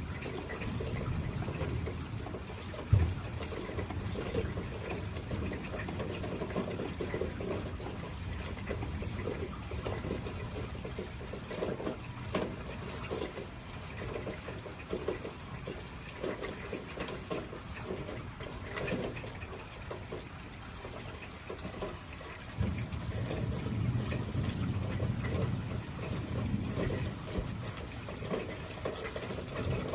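Water trickling and splashing unevenly, with one sharp knock about three seconds in.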